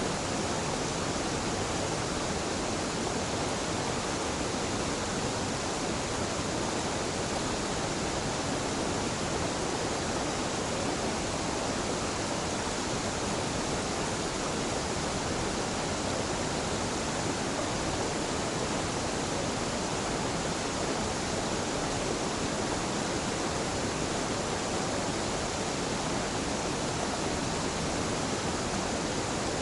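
A gentle waterfall's water pouring and rushing steadily, an even unbroken wash of sound with no changes.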